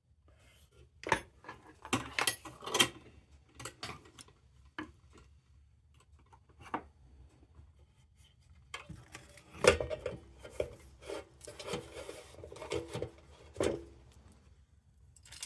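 Metal parts being handled on a workbench: scattered clicks and knocks, then a busier run of metallic clinks and rattles with a short ring, from about nine seconds in until near the end.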